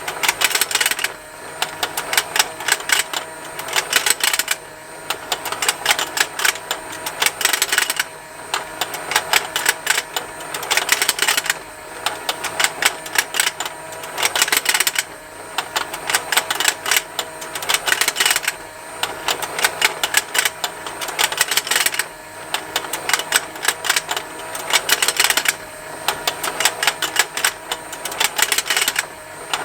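Plastic fishing game toy running: its small motor turns the pond with a rapid continuous ticking, and the plastic fish snap as they open and close. The ticking comes in stretches of about three seconds with a short lull about every three and a half seconds.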